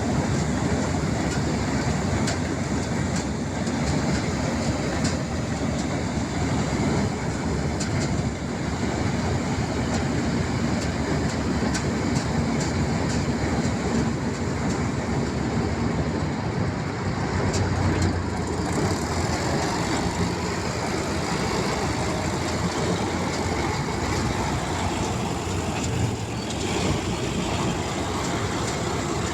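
Paddy harvesting machine running steadily: a constant, loud mechanical drone with no change in pace.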